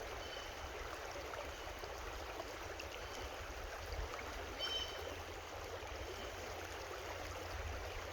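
Creek water running, a steady even rush. Two brief high chirps rise above it, one about half a second in and one just before five seconds.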